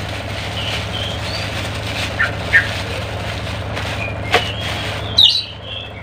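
Birds chirping in short calls, over a steady low hum, with one sharp click about four seconds in.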